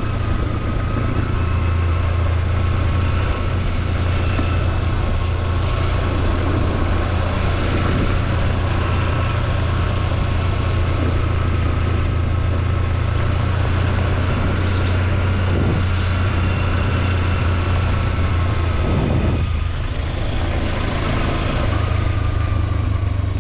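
Kawasaki Versys-X 300 parallel-twin engine running steadily under way, a low drone with a thin high whine over it. The engine note dips briefly about three-quarters of the way through.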